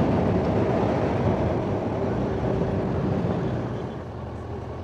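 Motorcycle running with steady wind and road rush, getting quieter about three-quarters of the way through.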